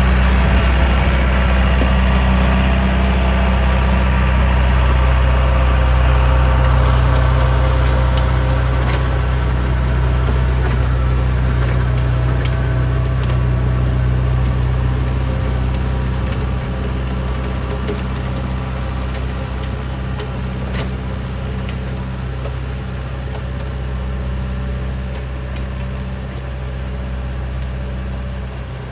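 Massey Ferguson 2630 F tractor's four-cylinder diesel engine running steadily with an even low drone, slowly getting quieter from about a third of the way in.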